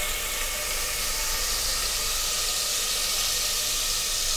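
Spice paste mixed with water sizzling steadily in hot oil with browned onions, as it is spooned into the pan.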